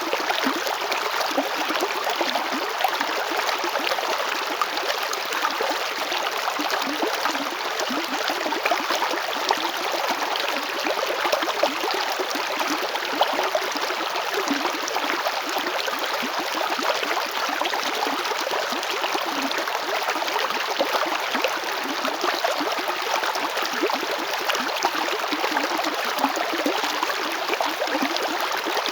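River water flowing and splashing over stones, a steady babbling rush with small gurgles.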